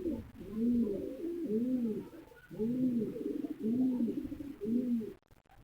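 Kept birds giving low, arched calls that rise and fall, repeated roughly once a second and stopping shortly before the end.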